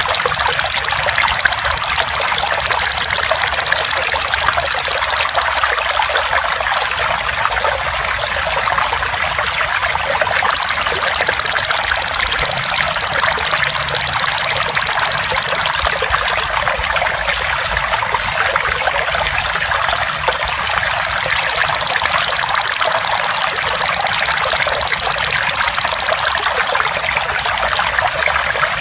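Trickling water running steadily under the call of a belalang emas (golden grasshopper), a loud, high-pitched, even buzzing. The call comes in three bouts of about five and a half seconds each: at the start, about ten seconds in, and about twenty-one seconds in.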